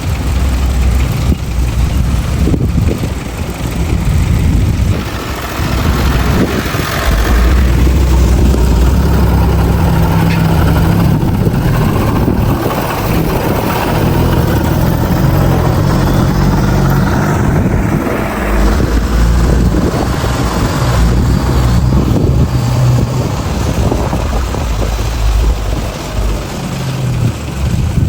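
Bulldozer's diesel engine running loud, its pitch rising and falling repeatedly as it revs up and eases off under load while pushing soil.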